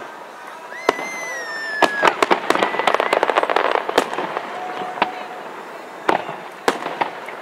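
Aerial fireworks bursting in quick succession: sharp bangs and dense crackling, thickest about two to four seconds in. About a second in, a whistle runs for about a second, falling slightly in pitch.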